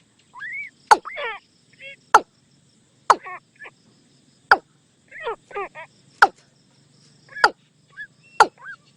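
Watercock calls played as a decoy recording: loud, abrupt notes that sweep steeply down in pitch, about one a second. Between them come quicker bubbling runs of falling notes. A faint steady insect-like hiss sits high behind them.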